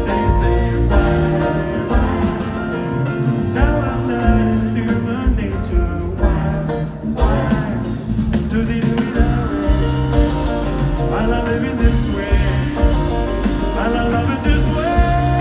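Live band music in a passage without lyrics: a full band playing with guitar, with some wordless singing over it.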